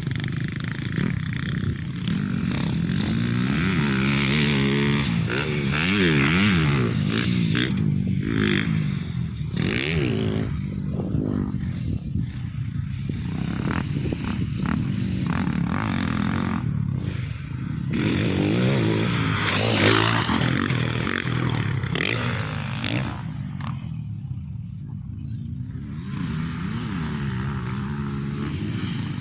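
Off-road vehicle engine revving up and down while driving over a dirt track, with scraping and clattering from the ground and the machine, and a louder burst of revs about two-thirds of the way through.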